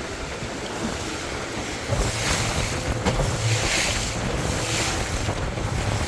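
Rapids rushing steadily, with wind buffeting the microphone in gusts about two and four seconds in.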